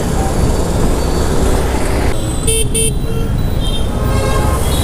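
Riding along a road with a steady low rumble of engine, wind and traffic. A vehicle horn gives two short toots about two and a half seconds in, and more short horn tones follow near the end.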